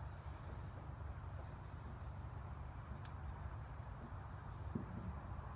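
Faint, high-pitched insect chirps repeating irregularly over a steady low background rumble, with a soft thump near the end.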